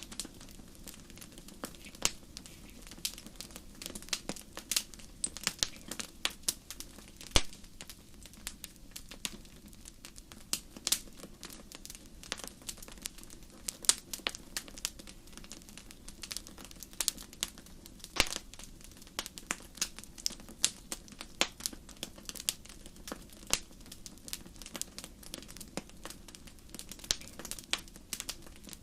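Wood fire in a fireplace crackling: many irregular sharp pops and snaps, a few louder ones, over a soft steady low rush of burning.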